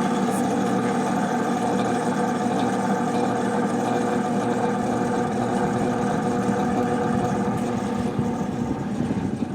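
1979 Emerson Casablanca friction-drive ceiling fan running on high, heard up close: a steady mechanical hum and whir from the motor and its friction drive, with several steady tones.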